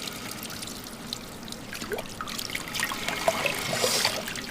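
Water running from a tap and splashing into a sink.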